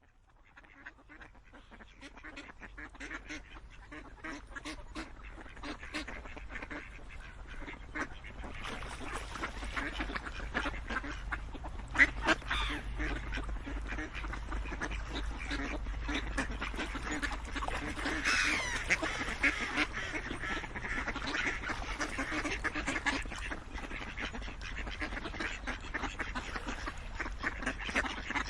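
A flock of ducks quacking, many calls overlapping. The calls fade in over the first few seconds, with one sharp loud call about twelve seconds in, over a steady low rumble.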